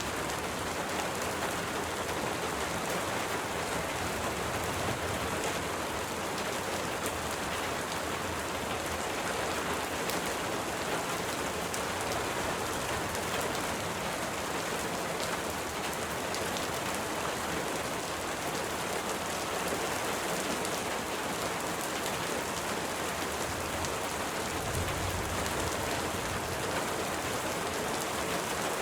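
Steady, even rain falling, with fine scattered drop ticks through the hiss and a brief low rumble a little before the end.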